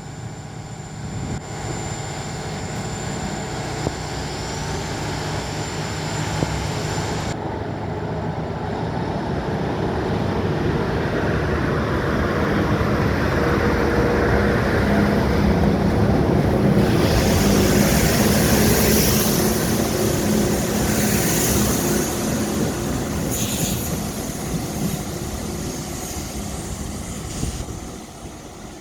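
Korail Mugunghwa passenger train pulling away from the station and accelerating: a steady whine early on, then a rail and traction rumble that grows louder as the train gathers speed past, is loudest about two thirds of the way in, and fades as it leaves.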